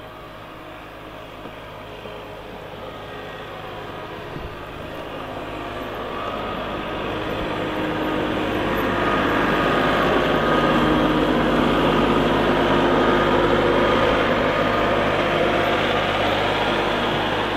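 Heavy vehicle's diesel engine running as it comes closer, growing steadily louder to its loudest about two-thirds of the way in, then easing off slightly near the end.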